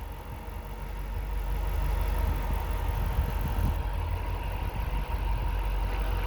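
2010 Dodge Challenger SRT-8's 6.1-litre HEMI V8 idling with a steady low rumble.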